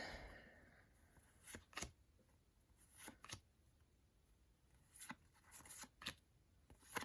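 Faint rustles and clicks of paper stickers and cards being handled, a short one every second or so.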